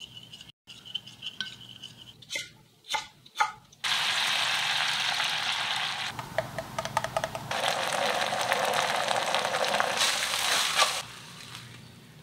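A metal spoon stirring starch batter in a glass bowl, with a few sharp clinks against the glass. About four seconds in, loud sizzling and crackling begins as batter is poured over oysters in a hot pan; it cuts off near the end.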